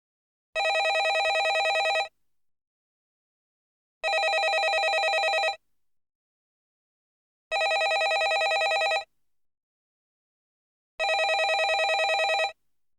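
Landline telephone ringing: four rings, each a fast trill about a second and a half long, repeating every three and a half seconds with silence between.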